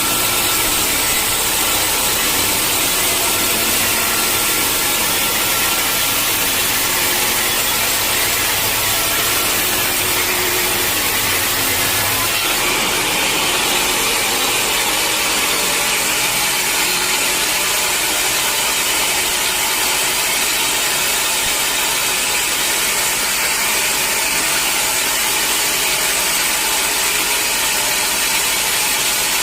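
Sawmill saw cutting through a mahogany log, a steady loud rushing noise of blade in wood. A low motor hum underneath drops away about twelve seconds in while the cutting goes on.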